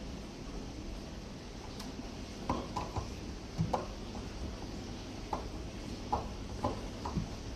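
Light, irregular clicks and knocks of parts and tools being handled while a dishwasher door is taken apart, over a steady low hum.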